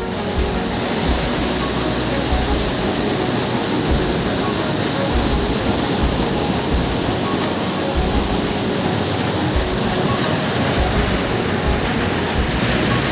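Steady rush of a waterfall, a loud even roar of falling water, with an uneven low rumble underneath.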